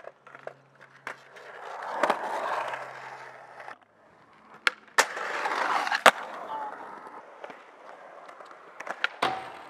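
Skateboard wheels rolling on concrete, growing louder, then cutting off abruptly. After that, sharp clacks of the board hitting the concrete about five and six seconds in, with more rolling between and after.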